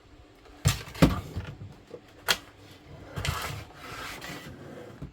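Handling noise: a few sharp knocks and clunks, then rubbing, ending with a click before the sound cuts off.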